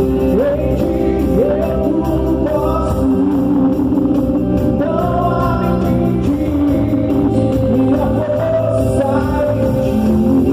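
Gospel worship singing with instrumental accompaniment: voices sing a praise song, notes sliding up into pitch, over steady held chords.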